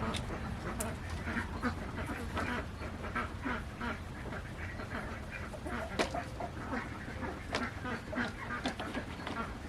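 A flock of domestic ducks quacking repeatedly. A few sharp clicks come from the plastic poultry crate being fitted together.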